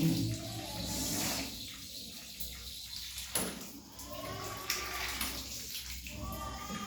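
Water running from newly installed bathroom plumbing as it is tried out for pressure.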